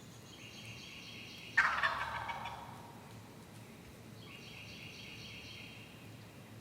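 A wild turkey gobbler gobbles once, a loud rattling gobble about a second and a half in that trails off within a second. A faint, thin, high steady tone sounds twice in the background, around the gobble and again near the end.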